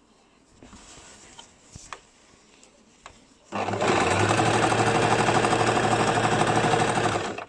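Basic domestic sewing machine: a few light clicks and handling noises, then about three and a half seconds into it the machine starts stitching, running steadily at a fast even pulse before stopping abruptly near the end.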